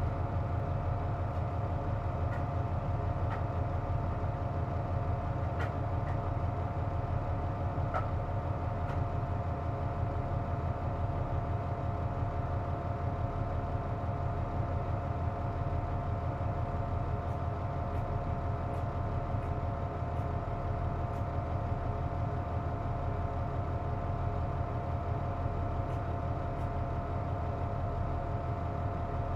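Nissan Diesel KC-JP250NTN bus heard from inside the cabin: a steady engine rumble with a held, steady whine on top, the unusual noise this bus makes while its air conditioning is running. A few faint ticks come through now and then.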